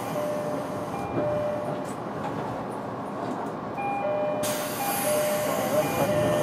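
Interior running sound of a JR East 205-series electric multiple unit, heard in motor car MoHa 205-612 while the train is under way: steady rolling noise of the wheels on the rails with a level whine. A louder hiss comes in about four seconds in and lasts a couple of seconds.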